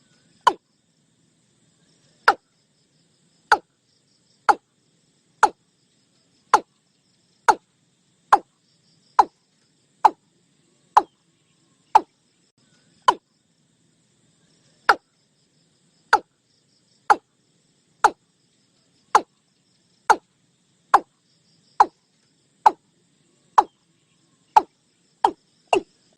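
Watercock calling: a series of short, sharp notes that drop in pitch, about one a second, quickening near the end into a fast run.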